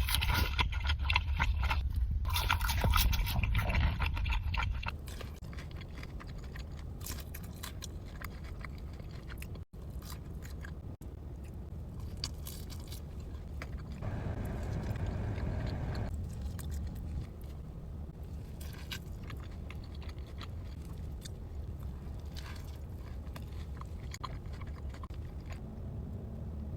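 Close-miked eating: biting into and chewing Raising Cane's fried food. It is louder for about the first five seconds, then settles into quieter chewing with scattered clicks.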